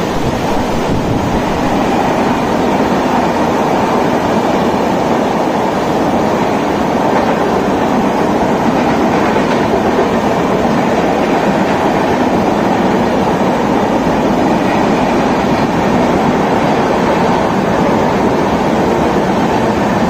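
Passenger train coaches rolling steadily past on the tracks, a continuous rail rumble over the hiss of heavy rain.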